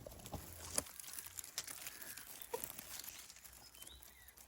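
Irregular rustling and crackling of leaves and grass being parted and handled close to the microphone around a nest in low vegetation. A couple of faint bird chirps sound in the background.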